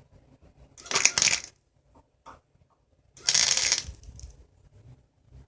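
Arc welder laying two short tack welds, each a crackling burst of under a second, about two seconds apart, with faint clicks between.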